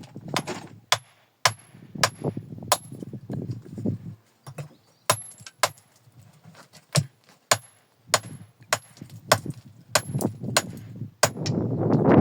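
Irregular sharp clacks of hard objects striking each other, some coming in quick pairs, several with a brief high ring. Softer scraping and rustling sounds fall between the clacks.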